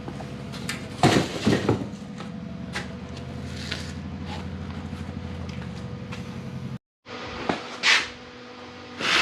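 Loud metal clanks and knocks from hand work on an old car body's door hinge area, a cluster of them about a second in and a few more near the end, with lighter clicks between. Under the first part is a steady low machine hum, and the sound cuts out briefly about two-thirds of the way through.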